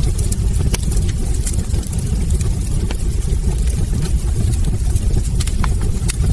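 Wood fire burning in a fireplace: a steady low rumble of the flames with irregular sharp crackles and pops from the logs scattered throughout.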